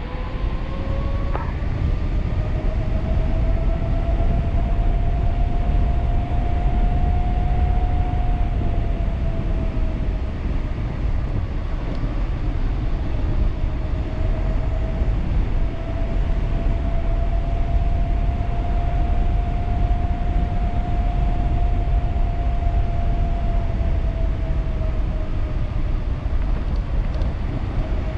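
Wind rushing over the microphone on a fast e-bike ride, over a thin whine from the 1500-watt Leaf Bike motor that rises and falls in pitch with speed. The whine climbs for several seconds, drops away, climbs again and falls near the end.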